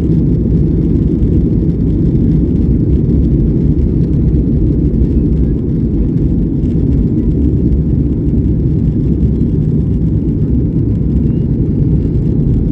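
Steady low rumble of a Boeing 737-800's CFM56 jet engines and rushing air, heard from inside the passenger cabin during takeoff.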